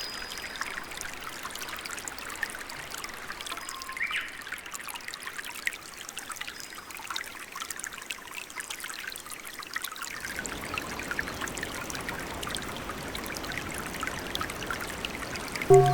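Trickling, dripping water: a steady wash of many small drips and splashes.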